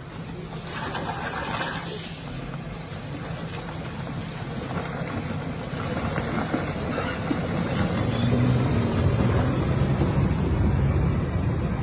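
Truck engine running steadily, growing louder about eight seconds in, with a short hiss of air about a second in.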